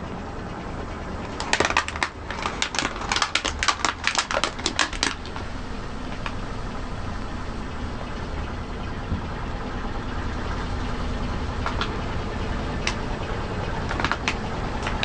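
A car tyre rolling over something crunchy and crushing it, with a quick run of sharp crackling snaps between about one and a half and five seconds in and a few more cracks near the end, over the steady low rumble of the car.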